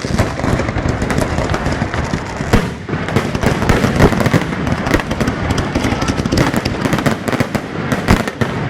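Aerial fireworks in a dense barrage: rapid overlapping bangs and crackles with no pause, with a brief lull about two and a half seconds in. Typical of the closing finale of a display.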